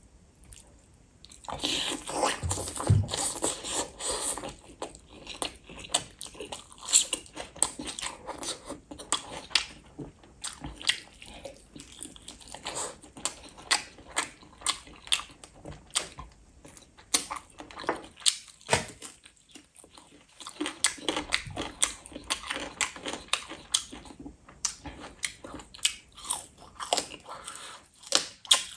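Close-miked biting and chewing of a chicken drumstick in gravy, a dense run of wet mouth clicks and smacks that starts about a second and a half in.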